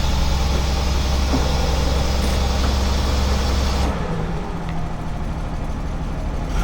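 Classic AC car's engine idling steadily after being manoeuvred into place; the low engine note drops away sharply about four seconds in.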